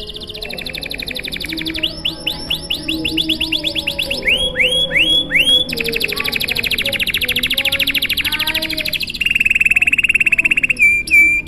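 Domestic canary singing a long, unbroken song of rapid trills. The phrases change every second or two: fast repeated notes, a run of quick falling sweeps, four slower falling whistles, a long fast trill, then a lower trill.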